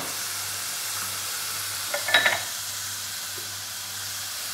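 Onion, tomato and spinach masala frying in ghee in a steel pan, sizzling steadily, the masala well fried. A short clatter about two seconds in.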